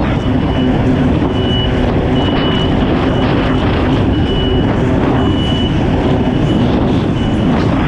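Kawasaki STX 160 jet ski's four-cylinder engine running steadily under power, with rushing wind and water. A short high beep repeats about once a second.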